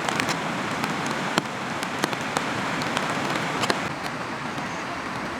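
Steady rain falling, an even hiss with many sharp, irregular ticks of single drops striking close by.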